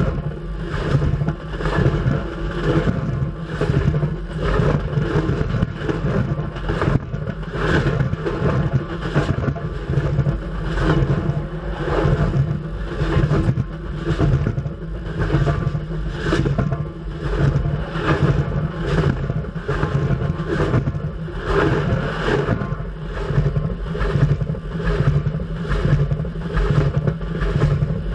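Freight train cars rolling directly overhead: a heavy rumble of steel wheels on the rails with a regular clacking rhythm of roughly two beats a second as the wheelsets pass.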